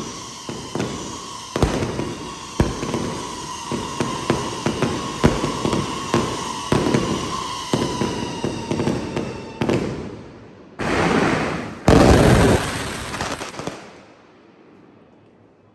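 Fireworks going off: a rapid string of sharp bangs and crackles, with high whistles sliding slowly down in pitch. About eleven seconds in come two louder stretches of dense rushing noise, and the sound then dies away.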